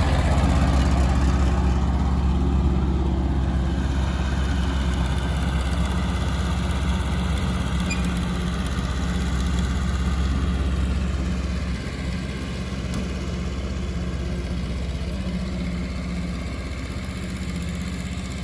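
An engine idling steadily, dropping a little in level about twelve seconds in.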